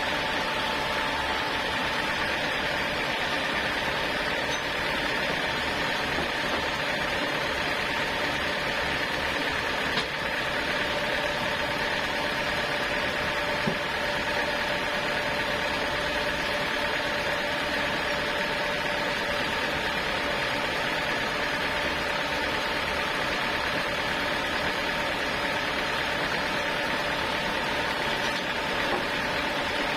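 Sawmill machinery running steadily at an even pitch and level, a constant mechanical hum with a few steady tones in it.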